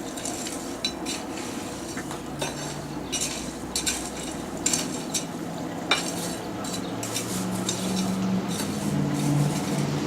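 Coal forge being tended: light metallic clinks and scraping of tools in the coals over a steady hiss of the fire. A low steady hum comes in about two seconds in and grows stronger later on.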